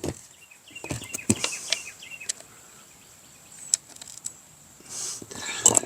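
Scattered clicks and light knocks of hand tools against the weed whacker's parts as it is being taken apart, several close together about a second in and single ones later. Faint bird chirps come through in the first couple of seconds.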